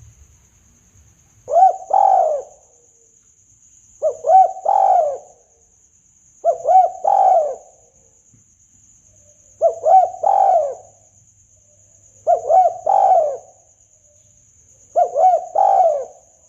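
Spotted dove (tekukur) cooing as a hunting lure call: six phrases, evenly spaced about every two and a half seconds, each two short notes then a longer, falling coo. A faint steady high whine runs underneath.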